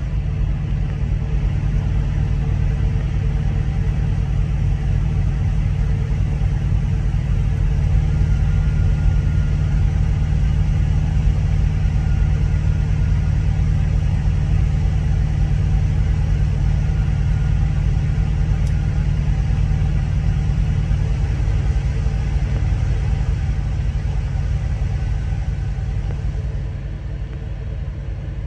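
Steady low rumble of a moving heavy vehicle, easing down a little near the end.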